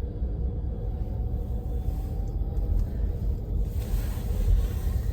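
A car's steady low rumble heard from inside the cabin. About three and a half seconds in, a wider hiss joins it.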